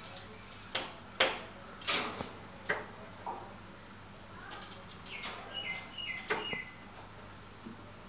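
Small birds calling: a few sharp, short calls in the first three seconds, then a quick run of short whistled notes stepping down in pitch a little past halfway.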